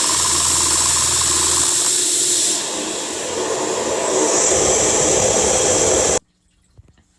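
LEGO pneumatic engine running on air: a loud, steady hiss of air rushing through its valves and cylinders, with the mechanism rattling underneath. The sound shifts a couple of times and then cuts off suddenly about six seconds in.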